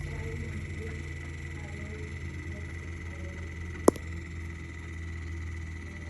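Vortech MP60 aquarium propeller pump running with a steady hum and a faint high whine, and one sharp, loud click a little under four seconds in: the intense clicking noise the pump is making.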